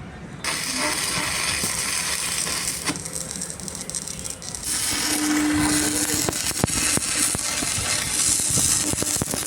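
Mechanical rattling and clicking over a steady hissing noise that starts about half a second in, with many sharp clicks in the second half.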